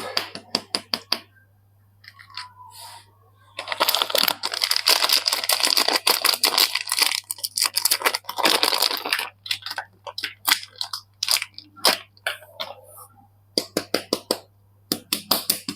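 Soap packaging being unwrapped by hand: a few sharp clicks and taps, then several seconds of wrapper crinkling and tearing, then quick runs of clicks and taps.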